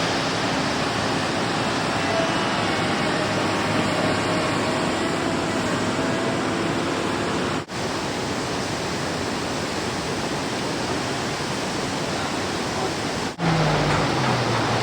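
Steady rushing of a swollen, flooding river, broken twice by sudden cuts; a low hum comes in near the end.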